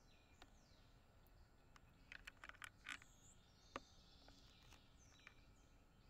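Faint songbird calls: thin whistled notes gliding downward, and a quick run of short, sharp chips and clicks about two to three seconds in, with one more shortly after.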